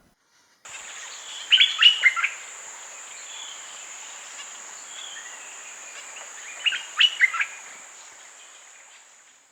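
Stripe-throated bulbul calling: two quick bursts of several notes, about five seconds apart, over a steady high-pitched insect drone.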